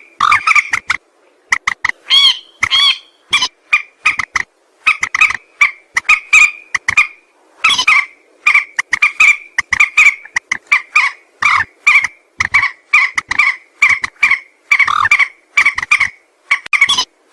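Calls of a mandar sawah, a rail: a rapid series of short, loud, croaking notes repeated several times a second, with a few brief pauses.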